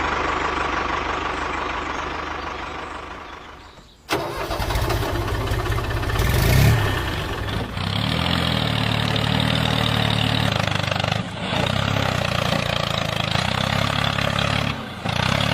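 A steady hiss fades away over the first few seconds. Then a homemade mini tractor's small engine starts abruptly and runs steadily, with two brief dips.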